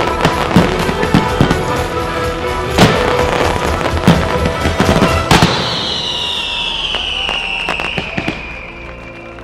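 Fireworks shells bursting in quick succession over music from the show's sound system, the loudest bangs near three and five seconds in. About five seconds in the bursts stop, and a long falling high tone carries on over the quieter music.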